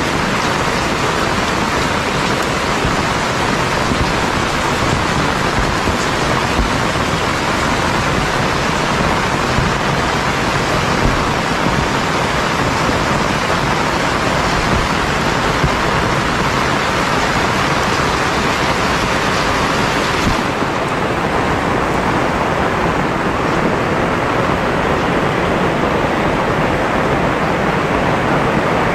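Heavy rain falling steadily, a dense even hiss; about two-thirds of the way through its sharpest high hiss softens a little.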